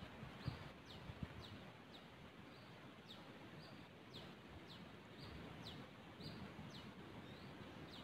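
Faint, repeated high chirps from a small bird: short notes, many sweeping downward, about twice a second, over a faint outdoor hiss.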